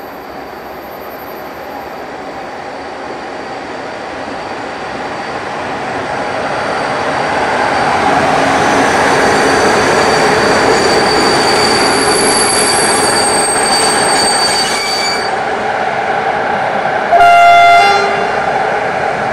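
Romanian CFR Călători class 477 electric locomotive hauling a passenger train past at close range. Its rumble grows louder as it draws near, with a high squeal over it for several seconds. Near the end it gives one short horn blast, the loudest sound.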